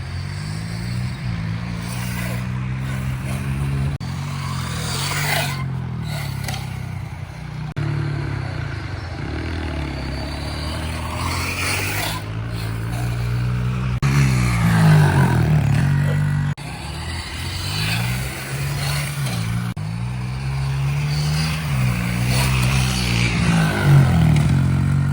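Pit bike engines revving up and down and passing by, in a string of short clips that cut off abruptly several times.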